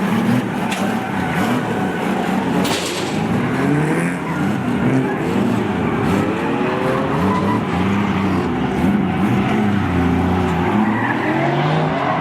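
Drift cars on track, several engines revving up and down over one another, with tyre skidding noise underneath.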